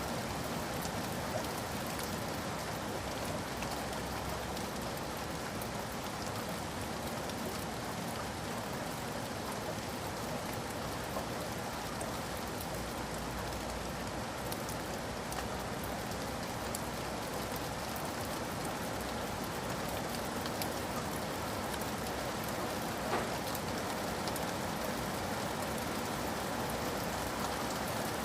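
Steady rain falling, with many individual drops tapping through it and one slightly sharper tap near the end.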